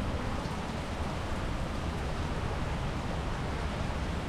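Steady monsoon rain falling, an even hiss with a low rumble underneath.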